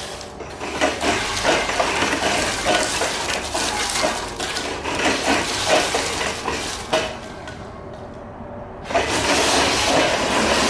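Ishida semi-automatic computer scale and lifter running on a test: a clattering of metal parts with many sharp clicks and knocks, then from about nine seconds in a loud steady rushing hiss.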